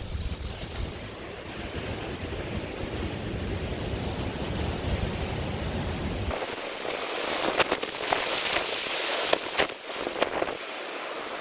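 Wind buffeting the microphone with a low rumble, then after an abrupt cut about six seconds in, a steady hiss with a scatter of sharp crackles and pops.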